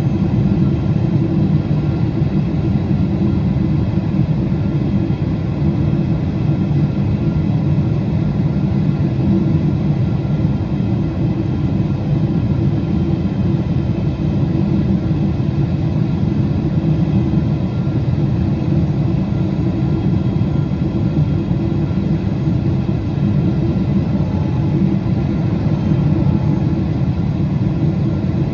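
Steady cabin noise of a Boeing 777-200 in flight on approach: a loud, even rumble of airflow and jet engines with faint steady tones above it.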